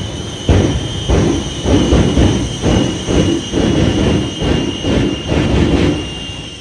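Shockwave jet truck's Westinghouse J34 jet engines whining steadily at a high pitch while the afterburners fire in a rapid string of loud booms, about two a second.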